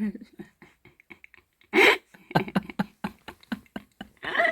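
Mouth sounds of someone eating soft durian flesh: wet chewing and lip-smacking clicks, broken by a short loud vocal exclamation about two seconds in and another near the end.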